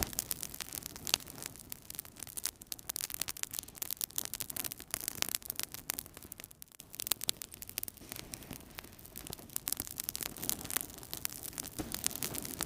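Wood fire burning in a fireplace: dense, irregular crackles and snaps over a soft hiss, easing off briefly about halfway through.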